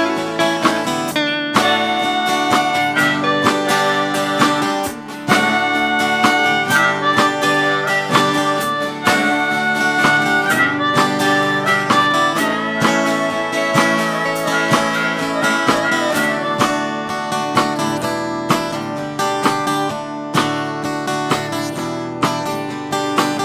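Acoustic band playing an instrumental passage: strummed acoustic guitar with long held lead-melody notes over it.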